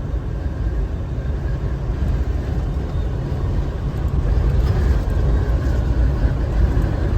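Steady low road and engine noise inside a moving car's cabin, getting a little louder about four seconds in.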